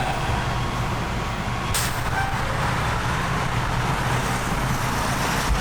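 A motor vehicle's engine running steadily, with a hiss that comes in suddenly about two seconds in and carries on.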